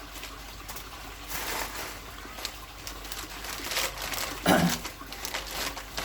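Paper wrapping rustling and crinkling as packed parts are unwrapped by hand, with one louder knock about four and a half seconds in.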